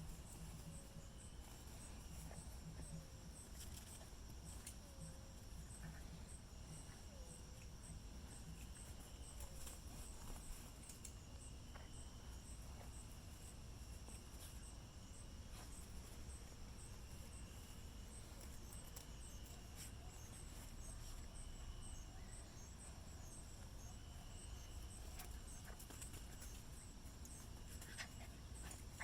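Faint, steady insect chirping: a high pulsing tone throughout, with a lower trill that comes and goes every few seconds, over a low hum and a few light taps.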